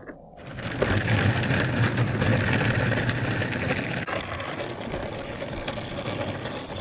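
Longboard wheels rolling over pavement, a steady rattling hum that comes in within the first half-second and eases slightly after about four seconds.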